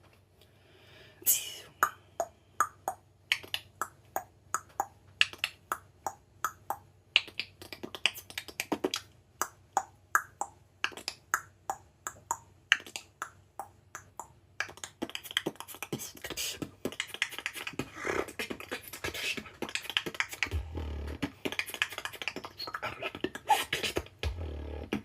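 Beatboxing built on rapid mouth clicks, a run of sharp clicks in a steady rhythm that grows denser and busier after about fifteen seconds, with deep bass thumps near the end.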